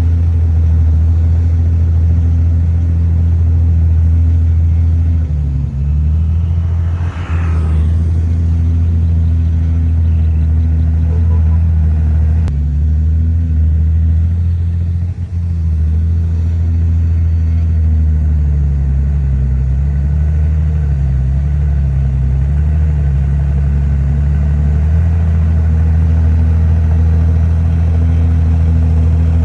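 Komatsu D51PX bulldozer's diesel engine running with a steady low drone, its pitch dipping and recovering a few times, with a brief rising noise about seven seconds in.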